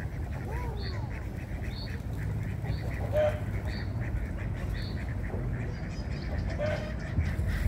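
Outdoor bird calls: a short high chirp repeated about once a second, with a few brief, lower, quack-like calls, over a steady low rumble.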